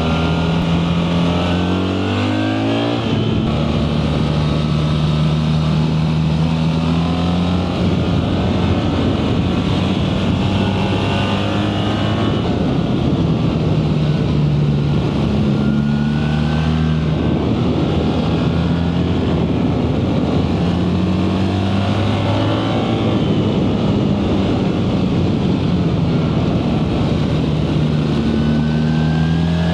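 BMW R 1300 GS boxer-twin engine under way. It accelerates hard with a rising pitch over the first few seconds, then cuts back sharply at a shift. After that it runs with the revs stepping up and down several times, and climbs again near the end.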